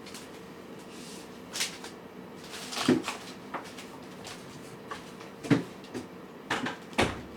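About six irregular light knocks and clatters, a few seconds apart, from cats' food dishes being nudged and knocked while the cats eat.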